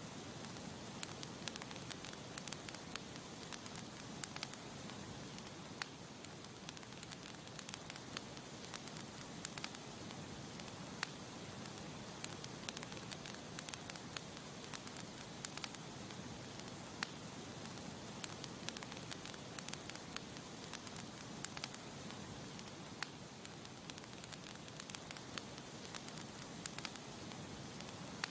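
Campfire burning with a steady hiss and frequent small, irregular crackles and pops of burning wood.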